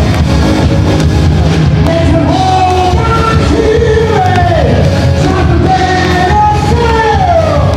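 A singer performing with a loud band, holding notes and sliding down between them, including a long falling glide near the end.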